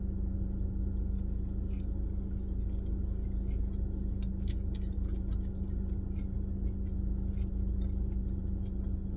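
Steady low hum inside a car cabin, with scattered small clicks and smacks of someone chewing fast-food fries.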